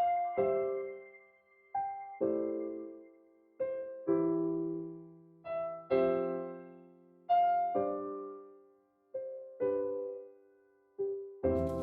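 Background music: slow, gentle piano, single notes and soft chords each struck and left to ring away. Near the end a fuller passage with a bass line comes in.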